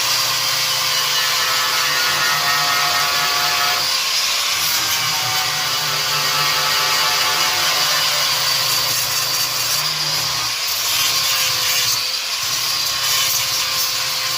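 Electric angle grinder running steadily against car-body sheet steel, cleaning the metal before a patch is lapped over it. Its whine sags a little in pitch at times as it is pressed harder into the work.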